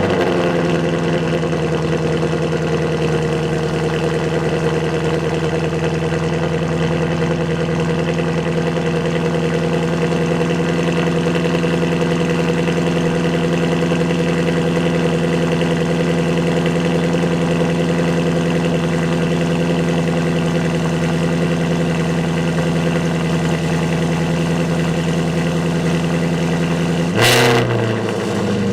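Shelby GT350's 5.2-litre flat-plane-crank V8 idling steadily at a raised cold-start idle, moments after starting. Near the end it surges briefly, then settles to a lower idle.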